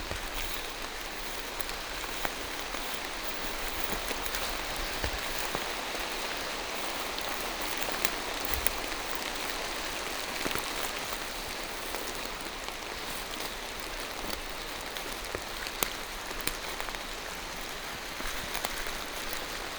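Steady rain falling on forest foliage, an even hiss with scattered louder drops ticking close by.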